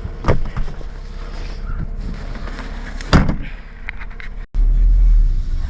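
Vehicle doors shutting: a thump just after the start and a louder one about three seconds in, over a low running hum. About four and a half seconds in the sound cuts and a loud, steady low rumble starts.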